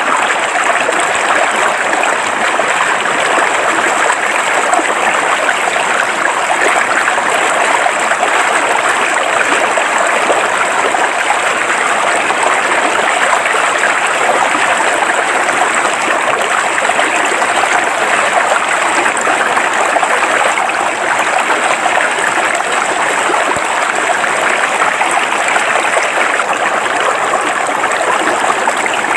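River water flowing steadily over rocks, a continuous even rush and babble.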